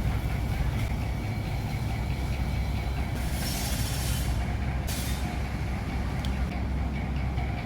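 Steady low rumble of motor traffic with a sharp hiss of air about three seconds in that lasts about a second, then a brief second hiss.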